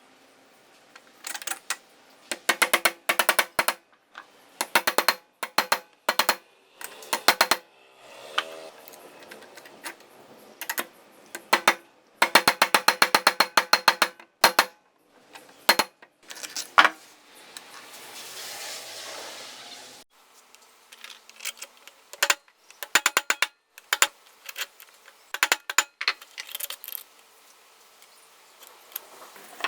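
Bursts of rapid clicking and rattling, like tools and small metal parts being worked and handled, with a short hiss a little past halfway.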